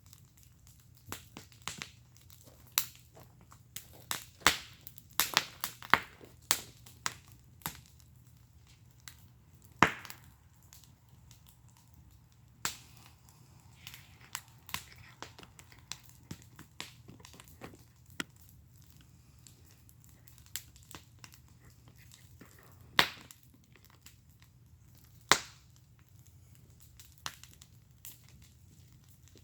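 Wood fire burning in a fire pit, crackling with irregular sharp pops and snaps. A few loud ones stand out, the strongest about ten seconds in.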